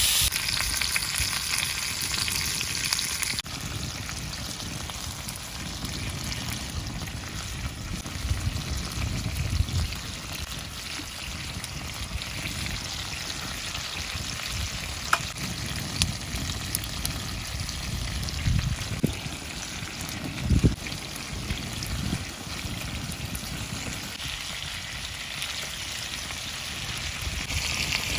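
Yakiniku meat and pilaf sizzling and frying in a pan, a steady hiss with a few low thumps along the way.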